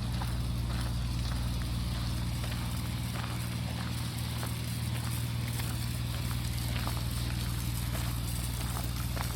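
Footsteps of a person walking at a steady pace, about two steps a second, over a steady low hum.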